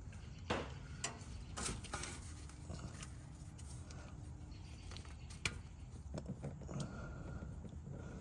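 A few sharp clicks and knocks, like metal tools or parts being handled, over a low steady rumble.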